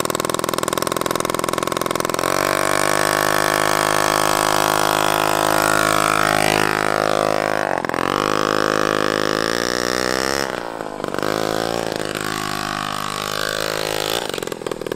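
Small moped engine running on a home-built moped with a lawnmower front end, revving up about two seconds in and holding a steady run. Its pitch dips and climbs again twice, near eight and near ten and a half seconds in, then falls away shortly before the end.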